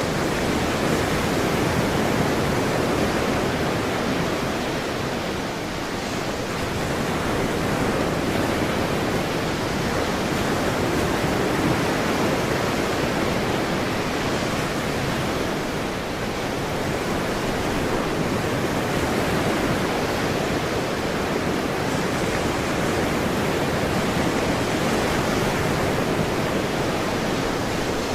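Ocean surf washing steadily, a continuous rush of water that swells and eases gently, with slight lulls about six and sixteen seconds in.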